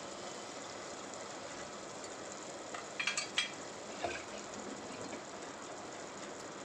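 Onion-tomato masala frying in an open pressure cooker, a steady soft sizzle, with a few sharp metallic clicks about three seconds in and a single knock a second later, as a kitchen utensil is handled and put down.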